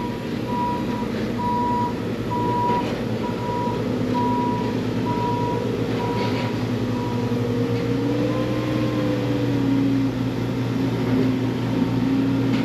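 Diesel engine of a log-handling machine running while it reverses, its backup alarm beeping about once a second for the first seven seconds; the engine revs up briefly and settles near the end.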